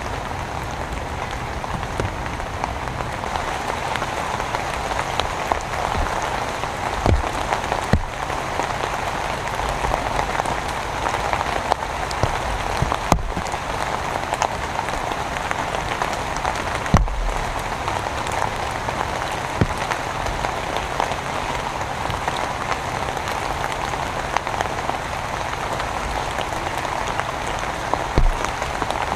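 Steady downpour of rain, with a few louder drops striking close by now and then.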